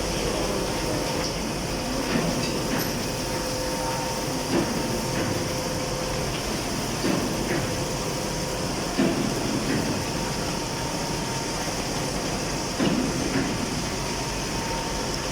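Induction melting furnace running, a steady industrial noise with a thin steady hum through it and a few scattered clanks.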